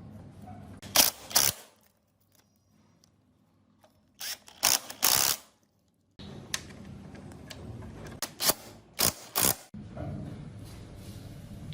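Hand tools working on metal motorcycle parts: a few short bursts of sharp clicking and clatter, in three separate groups with abrupt silent gaps between them.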